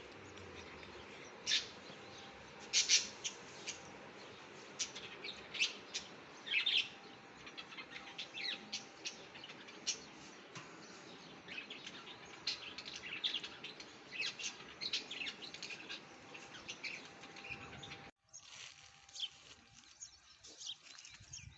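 Birds chirping: many short, high calls in quick, irregular bursts over a light background hiss. The hiss drops away suddenly near the end, and fainter chirps go on.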